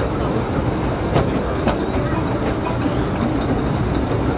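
Narrow-gauge passenger train heard from on board while running, a steady rumble of wheels on rail with a few sharp clicks as the wheels pass over rail joints.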